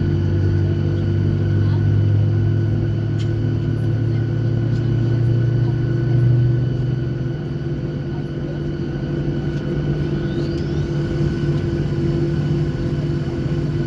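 Steady hum of a Boeing 737-800 heard from inside the cabin during engine start-up, with several steady tones over a low rumble. The deepest part of the hum drops away about seven seconds in.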